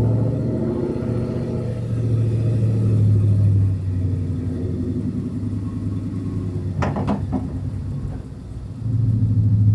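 E85-tuned burnout truck's engine running while driving: a steady low rumble that eases off briefly near the end, then picks up again, with a couple of sharp clicks about seven seconds in.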